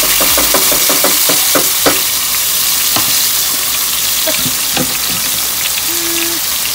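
Hot oil in a stainless steel pot sizzling loudly as chopped tomato, red onion and red chile are tipped in from a wooden cutting board, with a dense run of crackles and pops over the first two seconds that then thins out.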